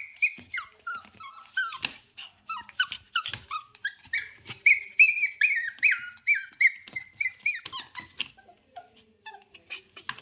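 Shih Tzu whining in a rapid run of short, high-pitched falling cries, about two to three a second, which thin out near the end.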